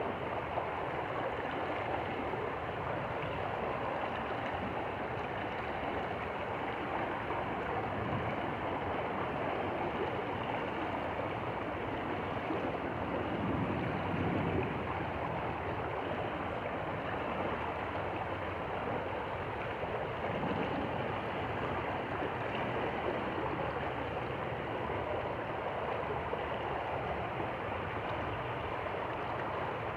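Stream water flowing steadily, with a brief swell of lower rumble about halfway through.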